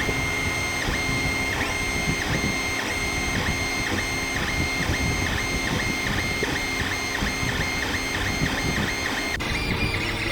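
3D printer running, its stepper motors whining in a quick repeating pattern of short tones as the print head moves. The sound changes abruptly about nine seconds in.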